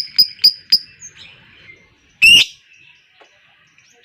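Lovebird calling: a quick run of sharp high chirps, about four a second, that stops just under a second in, then a single loud, harsh squawk a little over two seconds in.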